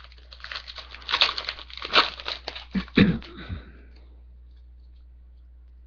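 A trading-card pack wrapper being torn open and crinkled by hand, a busy rustle that stops about four seconds in.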